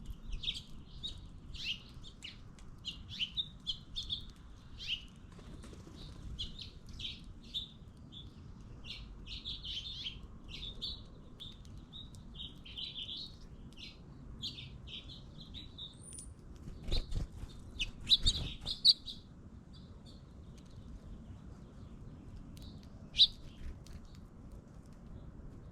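Small songbirds chirping in quick, short calls, many overlapping, thinning out toward the end. A few brief knocks come about two-thirds of the way in.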